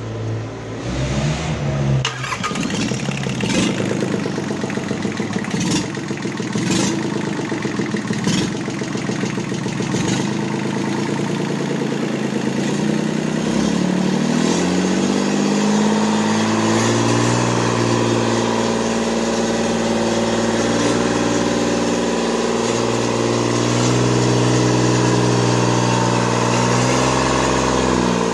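Mitsubishi K3E three-cylinder diesel engine starting on a test run. It runs unevenly at first with occasional sharp clicks, then after about thirteen seconds its speed rises and it settles into a steady run.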